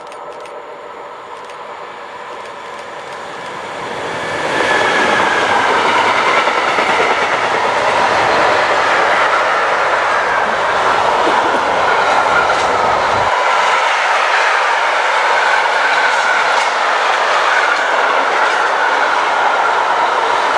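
A container freight train hauled by an electric locomotive comes closer, louder over the first four seconds, then its wagons pass in a steady rumble and clatter of wheels over the rails. A thin, wavering wheel squeal runs over the top.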